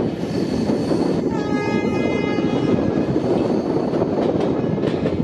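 Duronto Express train running, heard from an open coach door: a steady rumble of wheels on rail. About a second in, the locomotive's horn sounds once for roughly two seconds, and a few sharp clicks follow near the end.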